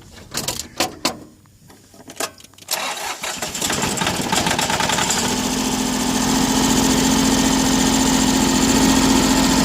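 A few clicks and knocks, then the Iseki TU175's three-cylinder diesel engine is started about three seconds in, picks up, and settles into steady running by about halfway.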